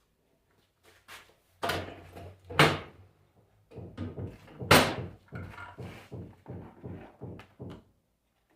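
A series of clunks and knocks from handling at an alternator test bench. The loudest come about a second and a half, two and a half and four and a half seconds in, followed by a run of lighter knocks about three a second, over a faint low hum.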